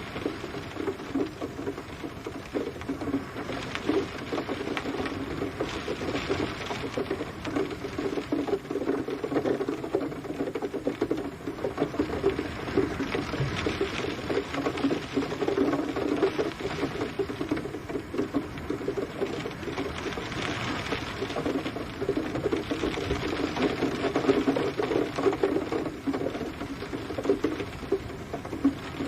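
Steady rain pattering on a surface, a dense, continuous crackle of drops.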